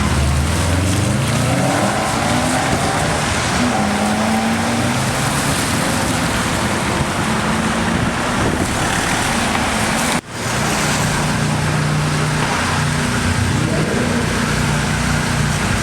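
Supercar engines accelerating, the pitch climbing as the revs rise. There is an abrupt break about ten seconds in, after which an engine holds steadier revs.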